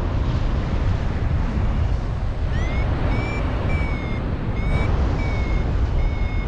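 Strong wind buffeting the microphone in flight, a steady low rumble. From about two and a half seconds in, a paragliding variometer sounds a run of short high beeps, about six in all, the steady beeping that signals the glider is climbing in lift.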